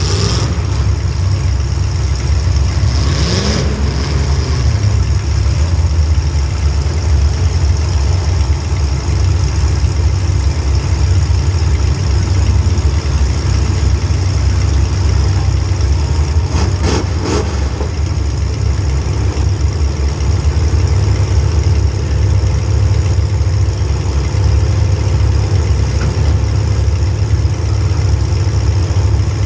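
Small-block Chevy V8 of a demolition derby car running steadily, with a brief rise in pitch about three seconds in. A few sharp knocks come just past halfway.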